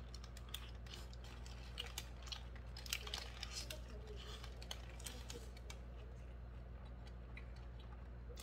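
Close-up biting and chewing of a Cheese Whopper Jr. hamburger held in a paper wrapper: a run of small wet mouth clicks and soft crunches, thinning out after about six seconds as he chews with his mouth closed. A steady low hum lies underneath.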